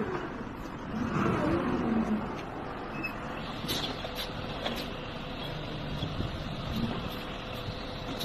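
A motor vehicle running, with steady mechanical noise and a few short clicks about halfway through.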